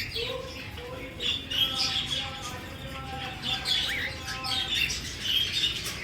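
A flock of aviary birds chirping and squawking together, many short calls overlapping without a break.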